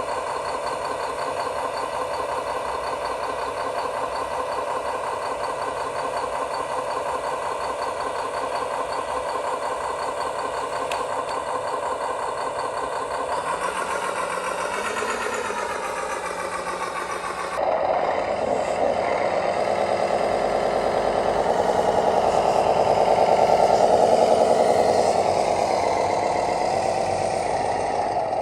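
Radio-controlled construction machine running, making a steady engine-like drone. About 13 s in the pitch shifts, and about 18 s in it steps suddenly louder and starts to waver, swelling to its loudest around 24 s.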